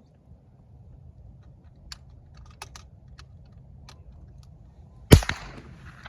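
.22 Long Rifle rifle shot: one sharp crack about five seconds in, after a few faint clicks.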